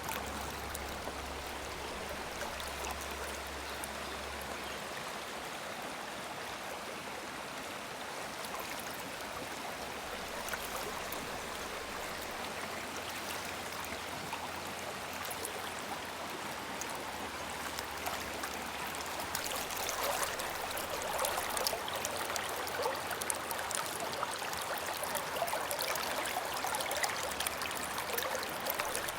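Shallow river running over rocks, a steady babble of flowing water that grows louder and more splashy about two-thirds of the way through.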